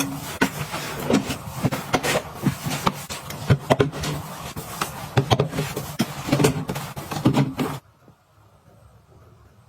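Items being handled and put away by hand: a quick run of small clicks, taps and knocks with rustling, like containers and packages set down and arranged. About eight seconds in it cuts off suddenly to near silence.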